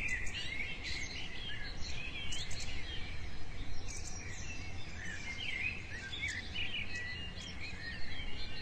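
Several birds chirping and singing at once, a busy run of short chirps and warbles, over a low steady background rumble.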